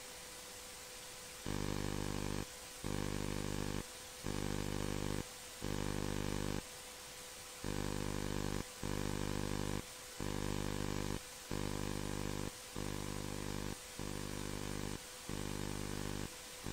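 A low electrical buzz switching on and off about ten times, each burst lasting about a second and starting and stopping abruptly, over a steady hiss with a thin high hum.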